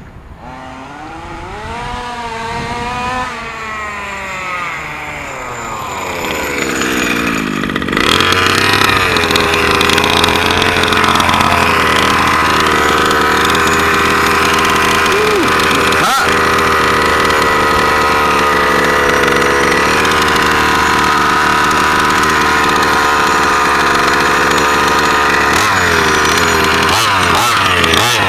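The two-stroke petrol engine of an HPI Baja 5B RC buggy (an OBR engine). For about the first eight seconds its pitch rises and falls, ending in a long falling sweep. It then jumps to a loud, steady, high-pitched full-throttle run that holds until near the end. There is a single sharp click partway through.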